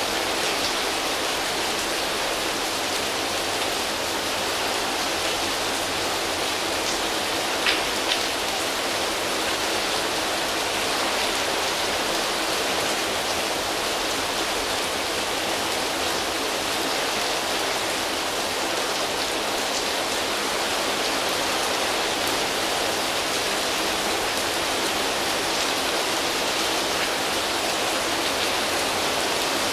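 Steady rain falling on foliage leaves, an even hiss throughout, with two brief louder taps about eight seconds in.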